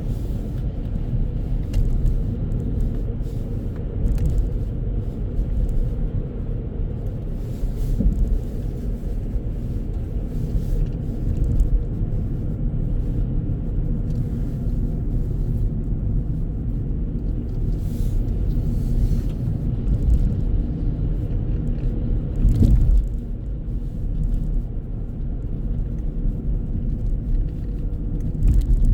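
Steady low rumble of a car driving, heard from inside the cabin, with a few brief thumps over bumps in the road.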